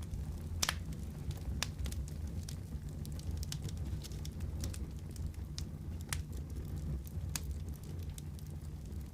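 Wood fire crackling in a fireplace: irregular sharp pops and snaps, a few louder ones about a second in and again later, over a steady low rumble.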